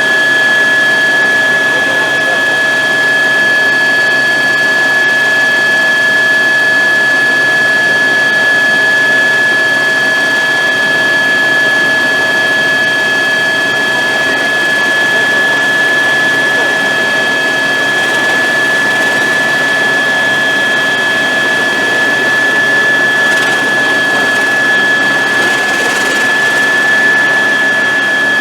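Helicopter in flight: a loud, steady rush of turbine engine and rotor noise with a constant high whine.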